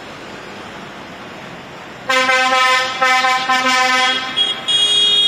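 Tractor horns honking: a lower-pitched horn sounds two long blasts about two seconds in, then a higher-pitched horn gives short toots near the end, over a steady background hum.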